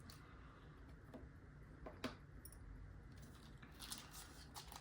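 Near silence with a few faint, scattered clicks and taps of steel lock picks being handled and set down.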